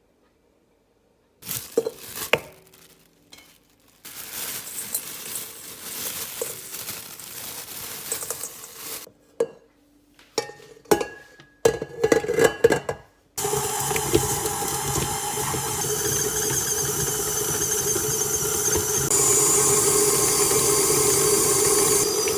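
Dishes and cutlery clinking and scraping in separate spells. About thirteen seconds in, a loud, steady hiss with a low hum starts and carries on.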